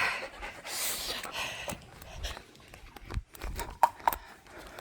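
Dog panting in quick breaths during a break in fetch, fading after about a second and a half, with two short high squeaks near the end.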